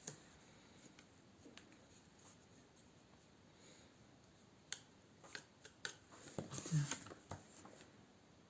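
A mostly quiet room with a cluster of light clicks and taps, from small objects being handled, about five to seven seconds in.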